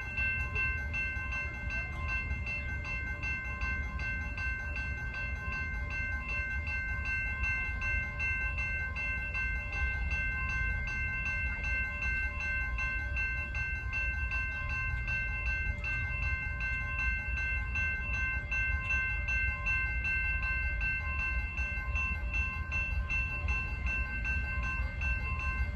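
CSX freight train rolling past with a steady low rumble. Several high, steady ringing tones sound over it throughout.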